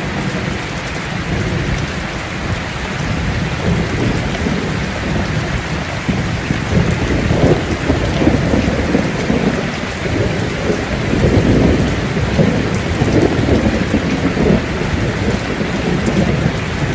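Steady heavy rain falling, with rolling thunder rumbling in from about a third of the way in and continuing in uneven swells.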